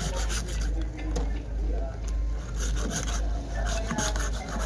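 Rhythmic hand rubbing or scraping strokes, about two a second, over a steady low hum.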